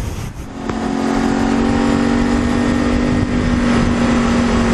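A vehicle running with a steady hum that sets in about half a second in, over an even rushing noise.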